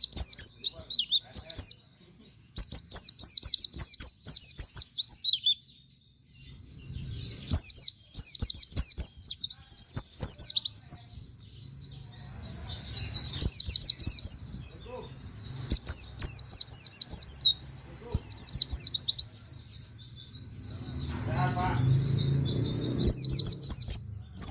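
Pleci (white-eye) singing in fast bursts of rapid, high chirping notes, the 'nembak' style with canary-like 'wit wit' notes. The bursts are a second or a few seconds long, with short pauses between them.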